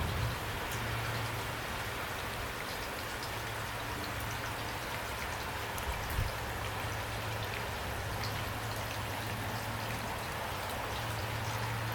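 Pouring rain, a steady hiss with many individual drops ticking on surfaces, over a low steady hum; a soft low thump about six seconds in.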